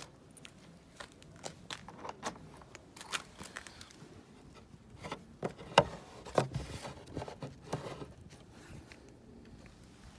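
Scattered light clicks, knocks and scrapes of hands handling things, with a sharper knock about six seconds in; no engine is running.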